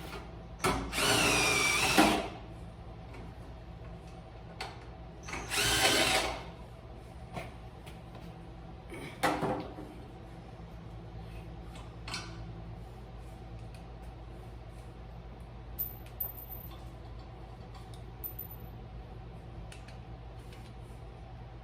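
Cordless screw gun running in two bursts, the first about a second and a half long and the second about a second, its whine changing pitch as it works, followed by a few light knocks over a steady low hum.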